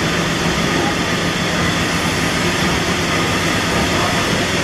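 Liberty ship engine room with the triple-expansion steam engine and its auxiliary machinery running, a loud steady mechanical din with a low hum underneath. The engine is being turned over slowly to warm it up.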